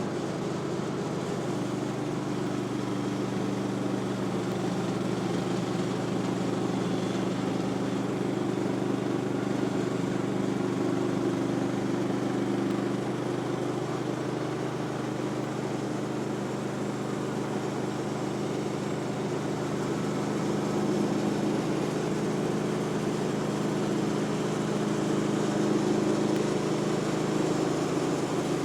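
Woodland Mills HM126 portable sawmill's gasoline engine running at a steady speed.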